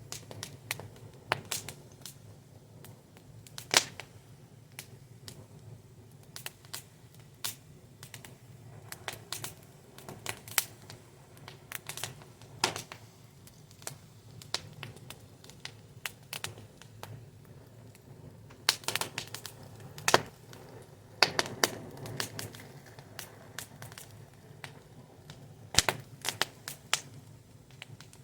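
Wood fire crackling: irregular sharp pops and snaps, some in quick clusters, over a low steady rumble of burning.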